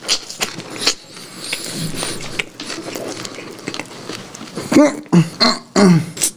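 Close-miked chewing: a run of wet mouth clicks and smacks while a man eats fried chicken. Near the end come a few short pitched sounds.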